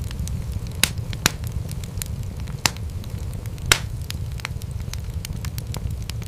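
Wood fire in a fireplace crackling: a steady low rumble of flames with many small crackles and four louder sharp pops in the first four seconds.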